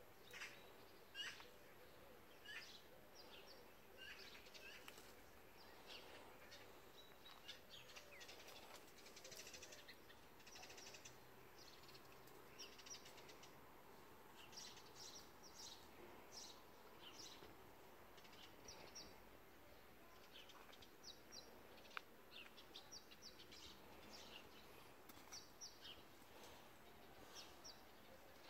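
Small birds chirping faintly: short, high chirps in quick clusters, repeated again and again, with one sharp click about three-quarters of the way through.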